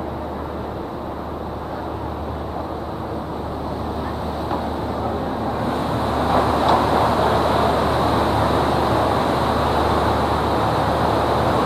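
River tour boat's engine running with a steady low hum under rushing wind and water noise, growing louder about six seconds in.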